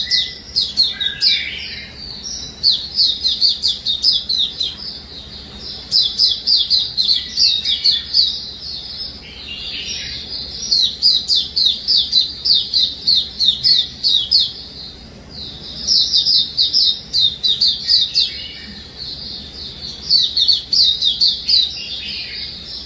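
Pet songbird singing in repeated phrases of rapid, evenly spaced high chirps, each phrase a few seconds long with short pauses between; a young bird's song about four months into stabilising.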